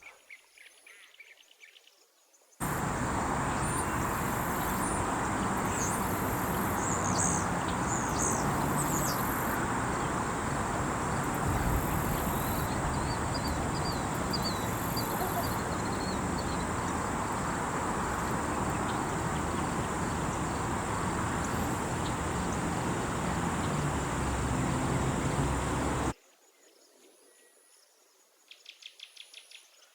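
Steady outdoor noise haze with a few high bird chirps and a quick run of short call notes over it. It starts abruptly a few seconds in and cuts off abruptly a few seconds before the end, leaving near silence with faint insect buzzing.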